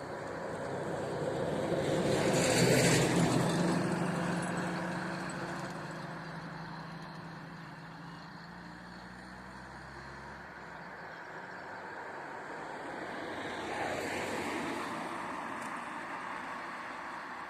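Two road vehicles driving past over the level crossing. The first is loud, passing about three seconds in, and its engine fades away slowly. A quieter second one passes near the end.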